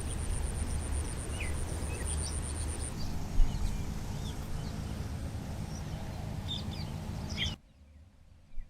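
Short bird chirps, a few scattered calls, over steady outdoor background noise with a low rumble. A thin high steady tone sounds for the first three seconds. The ambience cuts off abruptly near the end.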